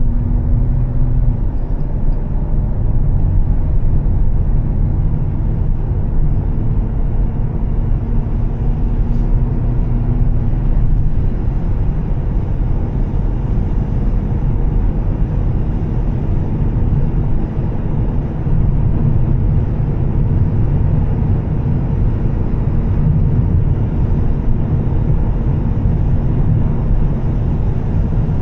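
Volvo S60 T6 driving at a steady pace: a constant low rumble of engine, exhaust and road noise, with a faint engine drone that fades out about ten seconds in.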